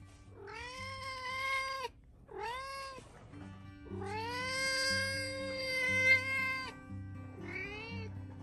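Domestic cat meowing four times: three short calls and a long, drawn-out one from about four to nearly seven seconds in, each rising at the start and then holding its pitch. Background music plays underneath.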